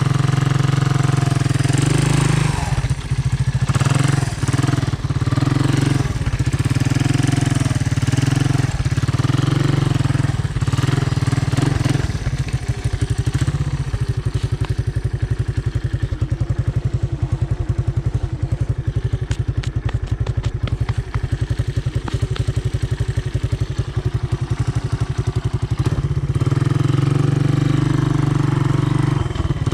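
Honda ATC 200M three-wheeler's single-cylinder four-stroke engine running under throttle with rises and dips in revs. About twelve seconds in it drops to a slower, chugging note with the individual firing pulses audible, then picks up again near the end.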